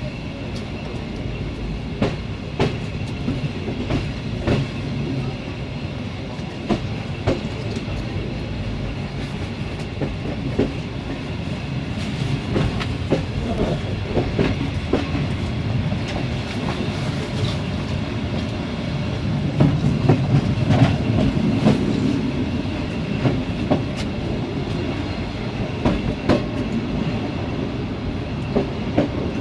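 Passenger train running on jointed track, heard from on board at the rear: a steady low rumble with irregular clicks and clacks of the wheels over rail joints, a little louder about two-thirds of the way through.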